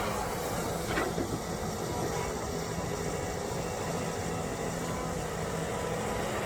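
Diesel engine of earthmoving machinery running steadily, with one short knock about a second in.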